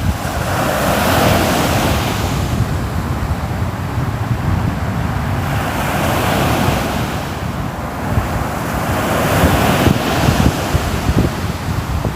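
Sea waves washing on the shore, the surf noise swelling and easing every few seconds over a steady low rumble.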